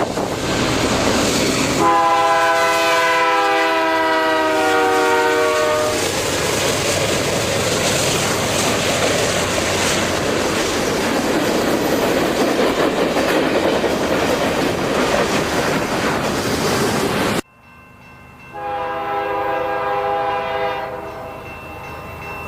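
Model railroad locomotive sound: a multi-chime horn sounds one long blast lasting about four seconds, followed by steady loud running and rail noise. About seventeen seconds in, the sound cuts off abruptly, and then a second, shorter horn blast comes over quieter running.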